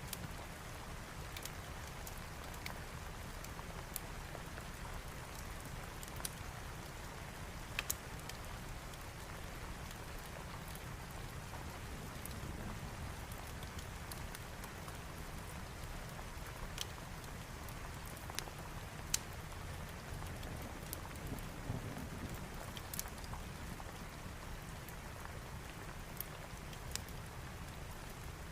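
Steady rain with a wood fire crackling in the fireplace, its crackles coming as scattered sharp pops at irregular intervals.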